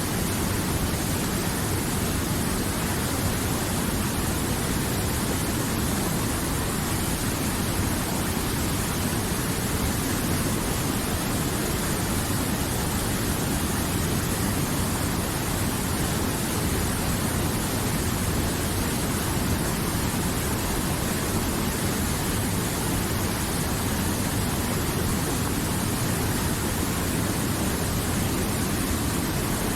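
River water rushing steadily, a continuous even rush with no change in level.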